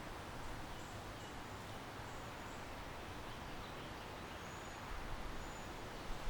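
Residential courtyard ambience: a steady hiss of wind, moving trees and distant city background, with a few faint, short high bird chirps now and then.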